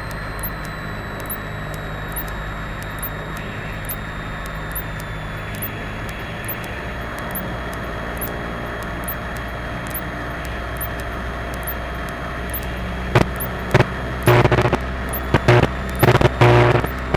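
Cessna 172's four-cylinder piston engine heard from the cockpit, droning steadily at low power, its pitch easing down slightly about six seconds in. From about thirteen seconds in, a loud pitched tone sounds over it in short on-off bursts.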